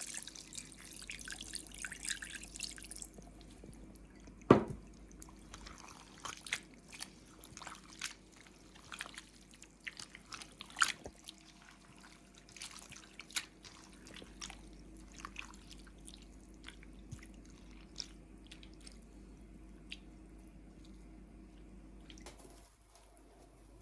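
Water pouring briefly, then irregular dripping and small clicks, with one sharp louder click about four seconds in, over a faint steady low hum.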